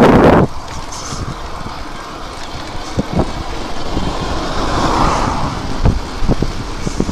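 Wind buffeting the microphone and low rumble from riding an electric bike along, with a loud gust at the start and a few short knocks from bumps.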